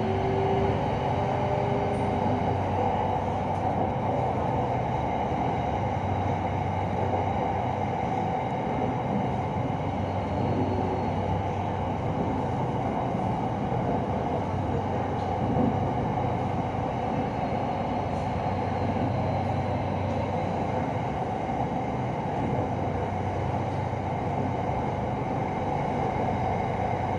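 Steady running noise of a Hitachi AT100 electric commuter train heard from inside the car as it cruises along the elevated line: a continuous rumble of wheels and running gear over a low steady hum. A faint motor whine rises in pitch during the first few seconds.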